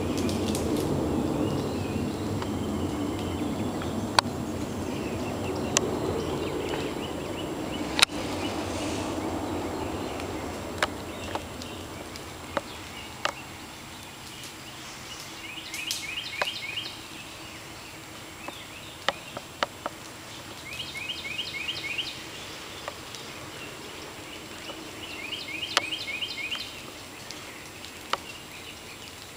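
Woodland ambience: a bird sings a short, rapid trilled phrase three times, about five seconds apart, in the second half, over a low, even rumble that fades away during the first dozen seconds. Scattered sharp ticks throughout.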